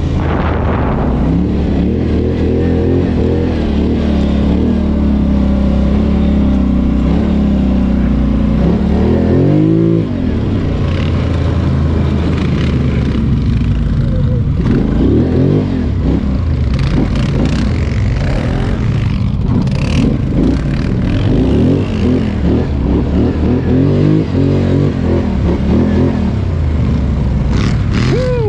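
ATV engine running under way, revving up and down with the throttle, busier changes in pitch in the second half.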